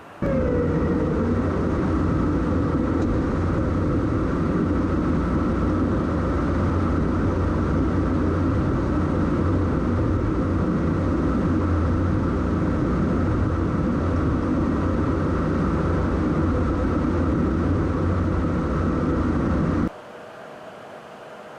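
Steady, loud jet aircraft noise: a dense rush with a constant whine on top. It starts suddenly, with a brief falling tone, and cuts off abruptly near the end.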